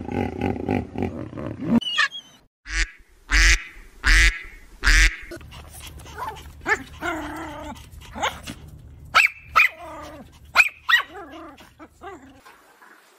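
A low grunting animal call for about two seconds, then small Pomeranian dogs barking and yapping. There are three loud barks early on, then a string of shorter, higher yaps.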